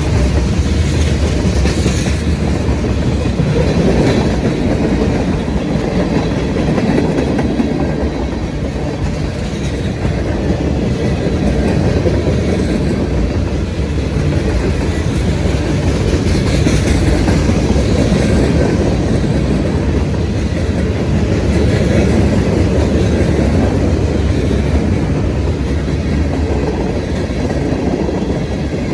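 CSX manifest freight train M692 passing, its cars rolling by with a steady, loud rumble of steel wheels on the rails.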